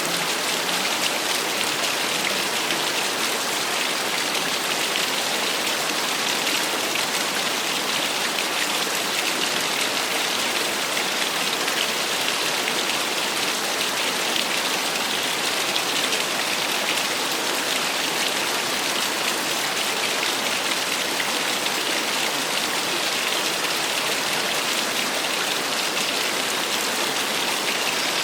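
Small waterfall splashing steadily, a constant hiss of falling water that holds the same level throughout.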